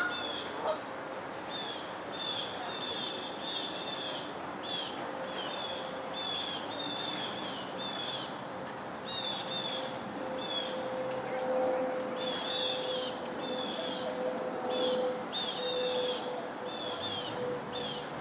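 A small bird chirping over and over, short high notes that slide downward, repeated every second or so over steady background noise and a faint hum.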